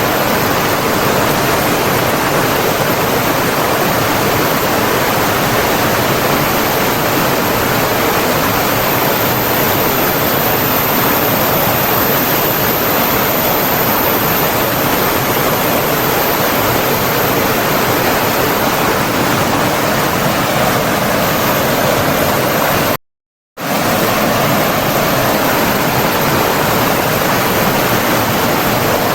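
Steady, dense rushing of flowing water, as from a stream or waterfall, with no birdsong heard. About three-quarters of the way through it cuts out completely for about half a second, then resumes.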